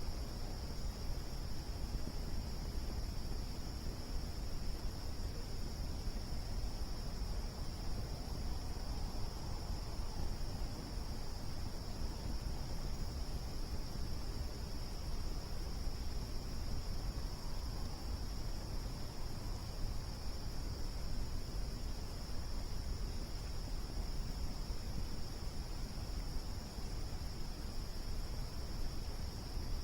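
Crickets chirping in a steady, unbroken high-pitched chorus over a constant low rumble.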